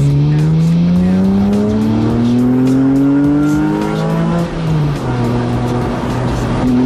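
Porsche 997 Carrera S's flat-six engine accelerating, its note rising steadily for about four seconds. It drops at an upshift and then picks up again near the end. It is heard from inside the open-top cabin, with wind rush.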